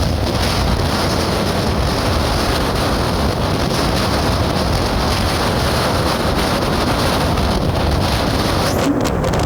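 Wind buffeting the microphone over the steady noise of a moving vehicle, with a few light knocks near the end.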